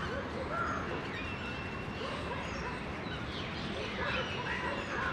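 Scattered short bird chirps and calls over a steady background hiss.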